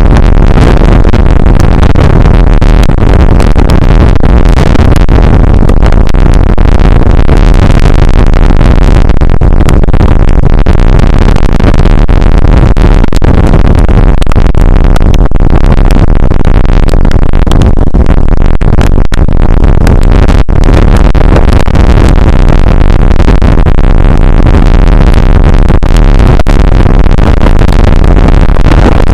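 Rain shower on an outdoor weather camera's microphone: a loud, steady hiss that overloads the recording, heaviest in the low end.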